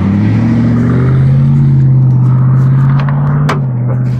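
A motor vehicle's engine running close by. Its pitch rises during the first second, then holds steady. A few light clicks come in the second half.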